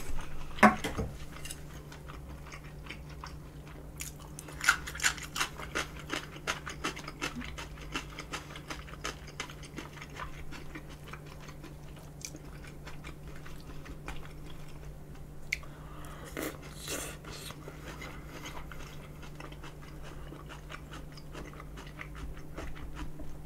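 A person chewing and biting food close to the microphone, a run of short sharp mouth clicks about five seconds in and again around sixteen seconds, over a low steady hum.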